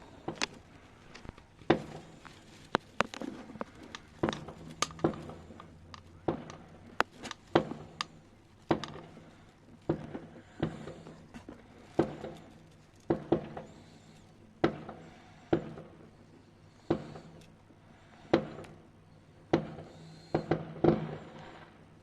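Fireworks going off: a long run of sharp bangs at uneven intervals, about one every second, each fading out briefly after the crack.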